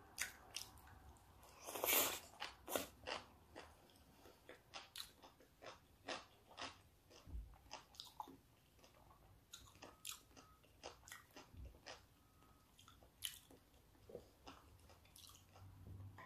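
A person biting and chewing a mouthful of seaweed salad: a run of crisp crunches and mouth clicks, loudest about two seconds in and thinning out toward the end.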